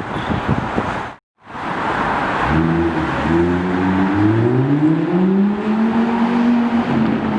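A car accelerating hard on the street, its engine note climbing steadily in pitch, then dropping near the end as it shifts up a gear. Before that, about a second in, the street noise breaks off for a moment.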